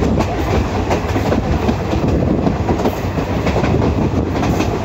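Passenger express train running along the track, heard from an open coach window: a steady rumble with constant clattering and rattling of the wheels on the rails.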